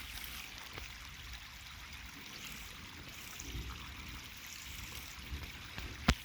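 Storm runoff stream flowing over the ground, a steady trickling rush of water. A sharp click near the end.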